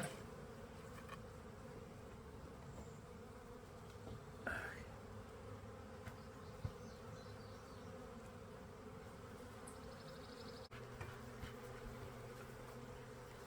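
Honey bees buzzing steadily in a mass hum around an open hive, with a brief scrape about a third of the way in and a sharp tick about halfway.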